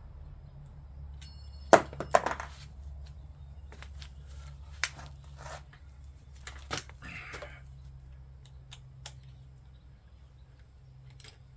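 Tools and bike parts being handled: a sharp knock about two seconds in, then scattered lighter clicks and taps, over a low steady hum.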